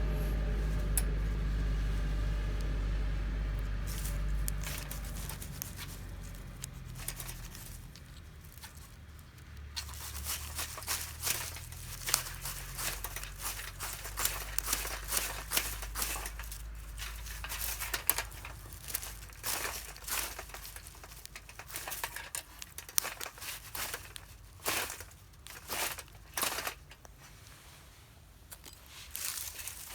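A low rumble that fades over the first several seconds, then irregular crinkling and crackling, many sharp clicks at uneven intervals from about ten seconds in.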